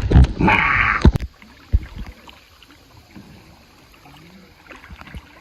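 Kayak paddling: a paddle knocks against the hull and water splashes for about a second, then it drops to quiet with one more knock.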